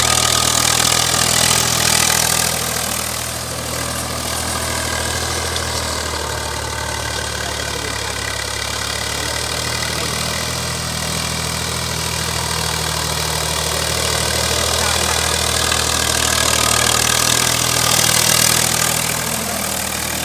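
Agri King tractor's diesel engine running at a steady speed, a little quieter a few seconds in and swelling slightly near the end.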